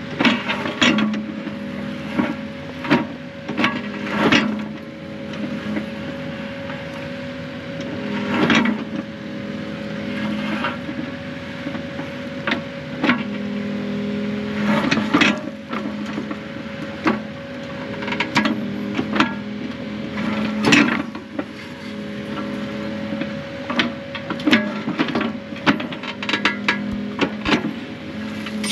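Excavator engine and hydraulics under load, with a steady whine that swells and eases every few seconds. Frequent sharp clanks and knocks run through it, typical of the bucket and tracks working in dirt and rock.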